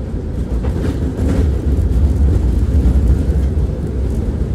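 Tram running along its line, heard from the passenger cabin: a steady low rumble of motors and wheels on the rails, growing a little louder in the middle, with a few light clicks about a second in.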